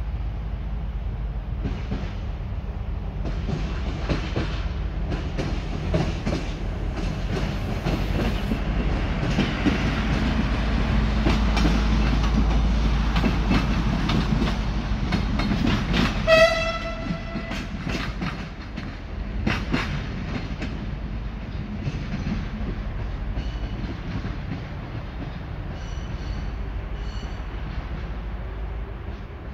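A train running past, its wheels clicking over the rail joints above a steady low rumble. About 16 seconds in, a short blast of the horn.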